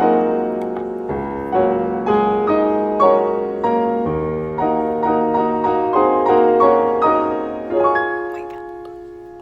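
Background music: a piano playing slow, sustained chords, the last chord held and dying away near the end.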